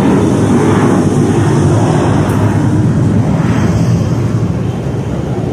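Jet airliner passing overhead on its climb-out after takeoff: a loud, steady engine rumble that begins to fade near the end.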